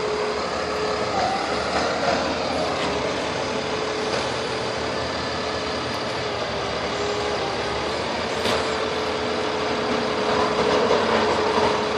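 Heavy truck engine running steadily, with a constant mid-pitched hum over it. A brief sharp sound cuts in about eight and a half seconds in.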